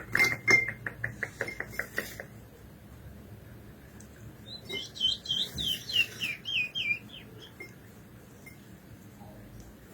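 A rapid run of sharp ticking chirps for about two seconds. About four and a half seconds in comes a short phrase of roughly eight quick slurred whistled notes: a curió (chestnut-bellied seed finch) singing.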